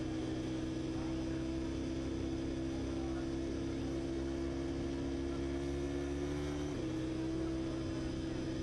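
Motorcycle engine running steadily, its pitch creeping slowly upward and then dropping suddenly about seven seconds in.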